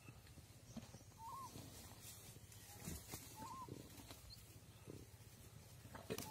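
A bird repeating a short, curling whistled call about every two seconds, over faint low rustling from a Komodo dragon feeding on a deer carcass; a sharp click shortly before the end.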